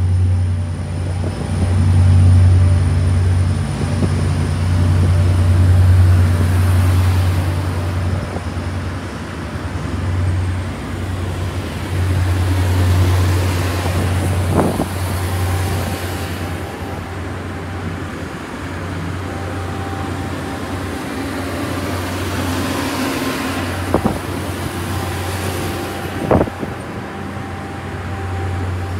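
Long Island Rail Road train below the platform, its motor giving a steady low hum, with three sharp knocks in the second half.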